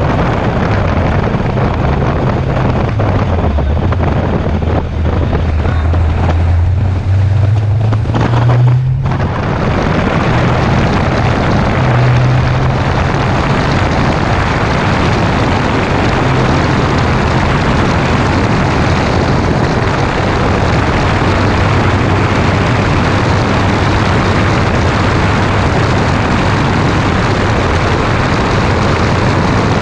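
Green fifth-generation Camaro SS's V8 heard through heavy wind rush on a side-mounted camera. The engine note rises for several seconds, drops off sharply about nine seconds in, then settles into a steady cruise. The car is hurt after blowing its supercharger belt.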